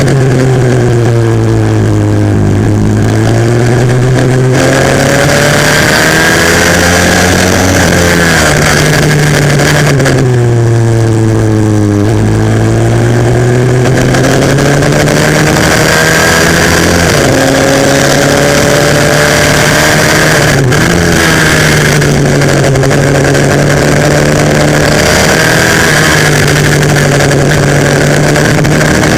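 Onboard sound of a 140cc pitbike engine racing on a kart track. The revs fall twice as it slows, then climb again as it accelerates, with a short dip about two-thirds of the way through before it holds high revs.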